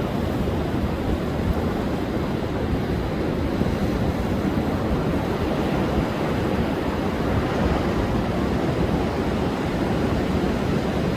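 Rough sea surf under a wind-and-wave advisory: waves breaking continuously, heard as a steady low rumble of churning water with no separate crashes standing out.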